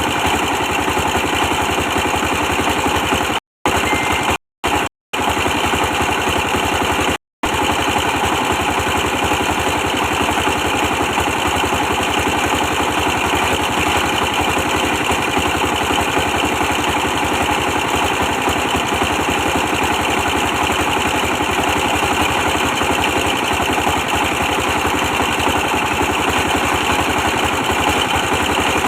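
A 24 hp stationary diesel engine running steadily with a fast, even chugging pulse. The sound drops out completely for a split second four times early in the stretch.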